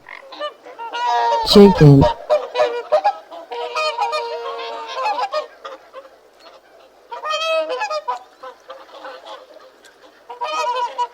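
Domestic fowl calling: loud honking calls with long held notes in the first few seconds, then two more bouts of calls later on.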